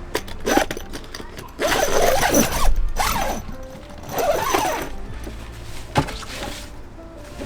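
Handling noise from gear: several bursts of mechanical rattling and creaking, a second or so apart, then one sharp click about six seconds in.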